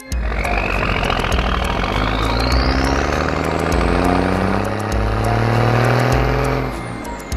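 Cartoon sound effect of a machine motor running, with a rushing noise and a whistle that climbs steadily in pitch and drops again near the end, over background music.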